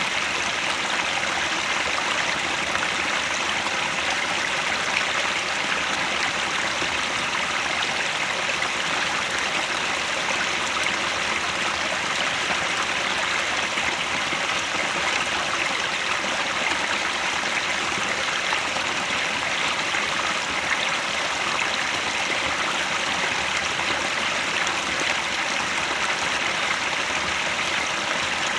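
Mountain headwater stream running over rocks, a steady rushing and splashing with no breaks.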